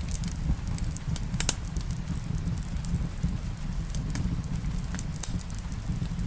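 Wood fire in a fireplace crackling, with irregular sharp pops, the loudest about one and a half seconds in, over a steady low rumble.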